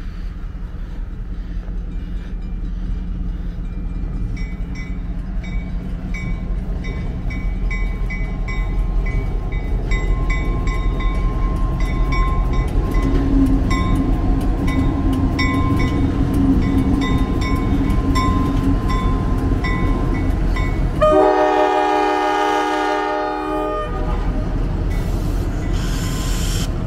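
An approaching train's rumble building steadily while a bell rings about twice a second, then a long blast on the locomotive's multi-note air horn about 21 seconds in, lasting some three seconds; a brief high hiss follows and the horn sounds again at the very end.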